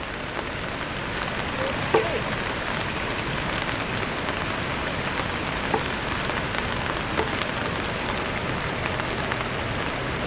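Rain falling: a steady hiss with scattered light taps of drops.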